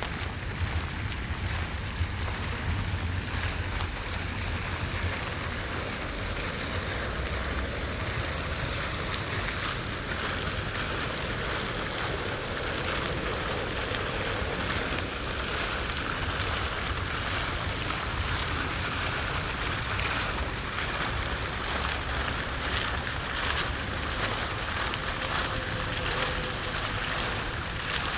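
Steady outdoor rushing noise with wind rumbling on the microphone.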